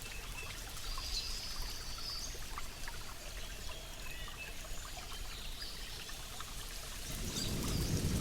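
Steady rain with water trickling and pouring, and a few faint bird chirps. Low thunder starts to rumble and swell about seven seconds in.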